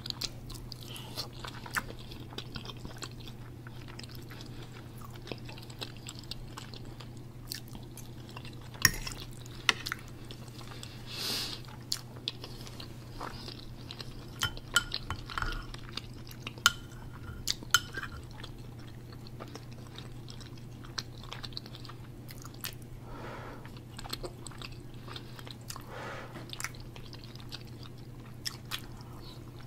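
Close-miked chewing of soft food, with scattered short clicks as a metal spoon is dipped into a glass bowl of black-eyed peas. A steady low hum runs underneath.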